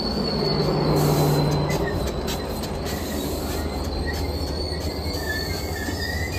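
Passenger train rolling past, its wheels giving a steady high squeal over a low rumble, with a few short clicks from the rails in the first seconds.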